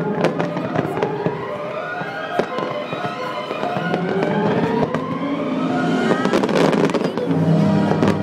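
Fireworks display: repeated bangs and crackling bursts that thicken into a dense crackle near the end, heard over loud accompanying music.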